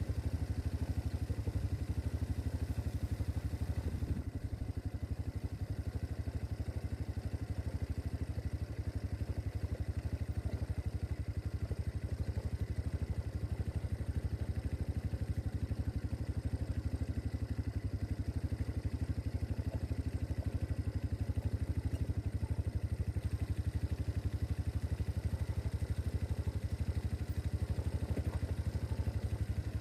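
MB Glock 200cc quad's engine running steadily at an even speed, with a fast, regular low pulse and no revving.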